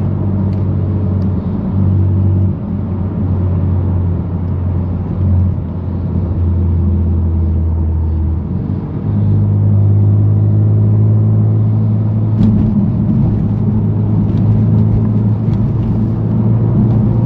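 Straight-piped exhaust of a BMW F80 M3 Competition's twin-turbo S55 inline-six, running with a steady low drone while cruising in traffic. About nine seconds in, the pitch steps up slightly and the level rises a little, then holds.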